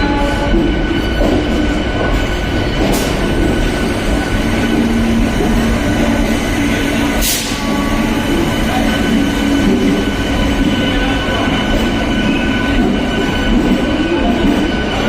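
Train running along the station track: a steady rumble of wheels on rail with a steady high-pitched tone above it, and two sharp clicks about four seconds apart.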